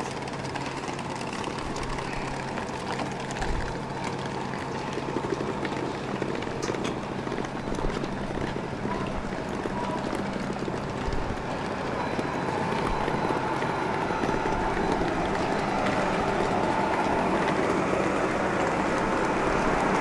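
Passenger train running, a steady rumble that grows gradually louder, with a thin steady whine coming in about halfway through.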